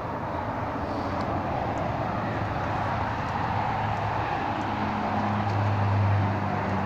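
Street traffic: a vehicle engine's low hum over steady road noise, growing louder about five seconds in.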